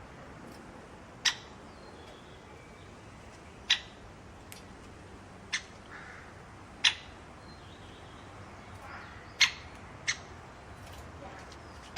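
A bird giving short, sharp single calls, six of them at irregular intervals, over a faint steady background.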